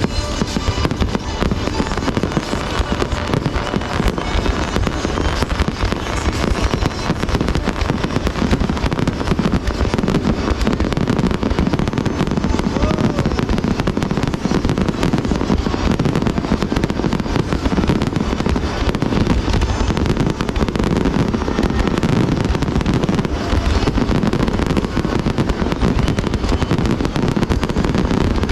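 Fireworks display going off in a dense, continuous barrage of rapid bangs and crackles, with no pause.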